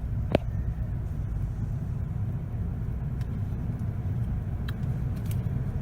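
Steady low rumble inside a car on a car wash tunnel conveyor, the car idling as it is carried along, with one sharp click less than half a second in and a few faint ticks later.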